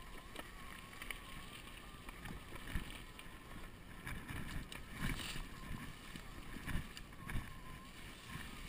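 Wind buffeting the microphone of a chest-mounted camera on a moving electric bicycle: a steady rumble with several louder gusts, four of them standing out in the second half. A faint wavering whine runs underneath.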